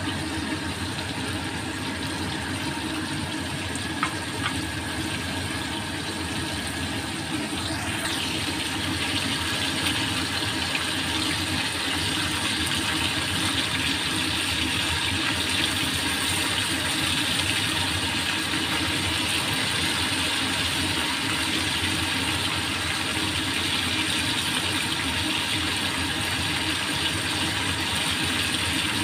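Flour-coated beef liver sizzling in shallow oil in a stainless steel wok, the sizzle growing louder after about eight seconds, over a steady low hum.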